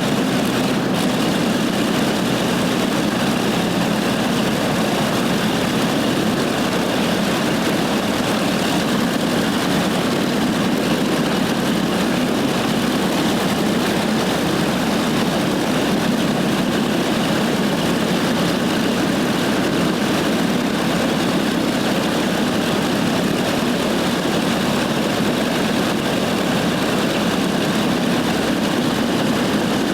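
Chance-Vought F4U-5NL Corsair's Pratt & Whitney R-2800 radial engine idling steadily, its propeller turning.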